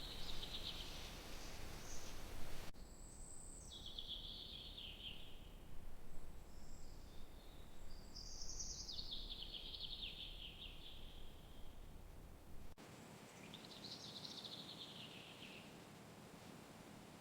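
A songbird singing: about four separate trilled phrases, each falling in pitch over a couple of seconds, over a low steady background rush.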